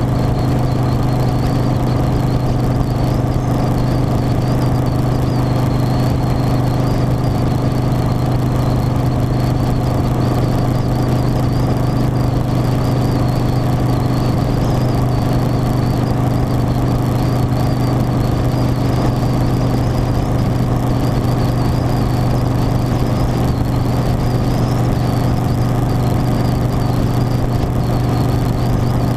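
Harley-Davidson Softail Standard V-twin running at a steady cruise, a constant low engine drone with wind rumble, and a thin high whine wavering above it.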